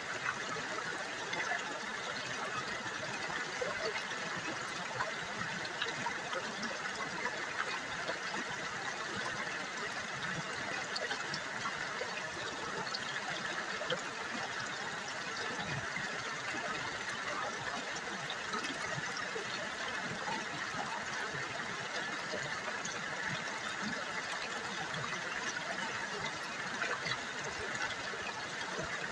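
River water babbling and trickling steadily, a constant splashing hiss with fine crackle that never pauses.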